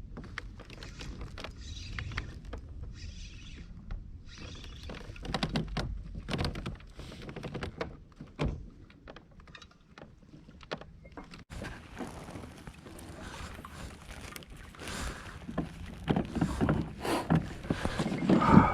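Water splashing and irregular knocks and clicks of gear being handled on a fishing kayak, with a louder thump near the end.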